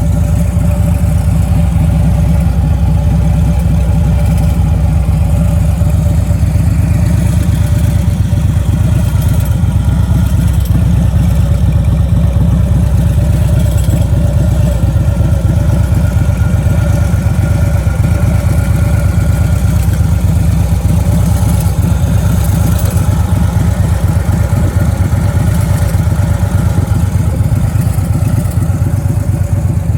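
A 2008 Harley-Davidson Street Glide's Twin Cam 96 V-twin idling steadily through Vance & Hines 4-inch mufflers, with a deep, even pulsing exhaust note.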